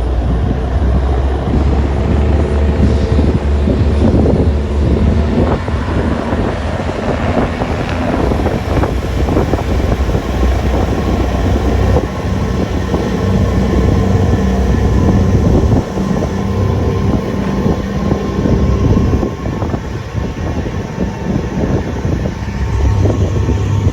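Water taxi's engines running with a steady low drone.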